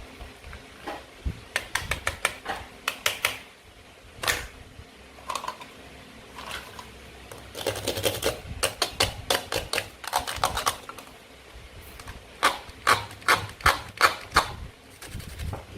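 Toy fruit and vegetable pieces being cut and handled: three runs of quick, sharp clicks and taps, starting about a second and a half in, around eight seconds in and around twelve seconds in.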